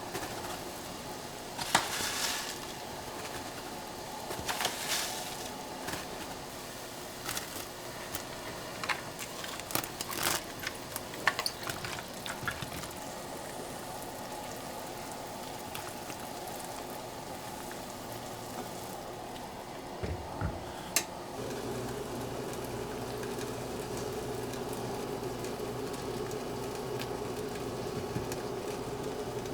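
Home-cooking sounds: liquid bubbling in a pot, with scattered light clinks and taps over the first part. About two-thirds of the way through there are a couple of knocks, then a steady low hum sets in.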